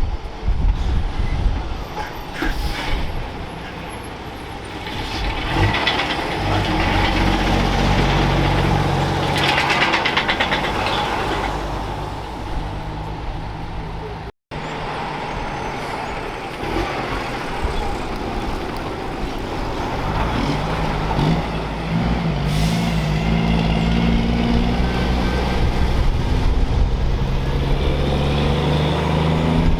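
Heavy diesel trucks running and pulling past, their engines pitching up under throttle, with a hiss of air brakes partway through. The sound drops out for an instant about halfway.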